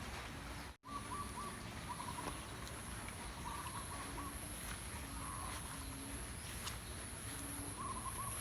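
Short, choppy animal calls repeating every second or so over a steady high-pitched insect drone, with the sound cutting out completely for an instant about a second in.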